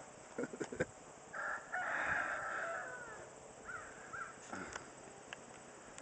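A rooster crows once, about two seconds long and falling off at the end, with a few short bird chirps after it. A few clicks come in the first second.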